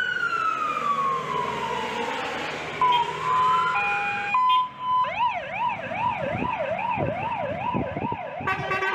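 Fire engine's electronic siren being run through its tones: a wail falling in pitch, a few brief steady tones, then a fast up-and-down warble, switching to a different tone near the end.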